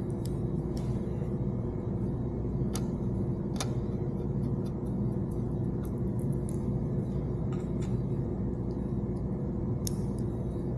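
Steady low machine hum, with a few light clicks and taps of small parts being handled, about half a dozen scattered through it.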